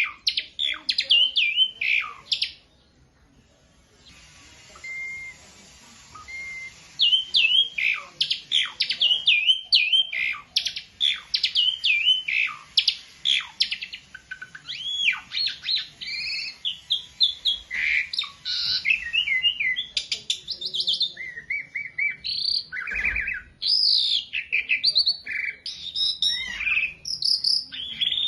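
Asian pied starling (jalak suren) singing a fast, varied run of whistles and chirps, mostly high-pitched. A few seconds in there is a pause broken by two short steady whistles, then the song resumes without a break.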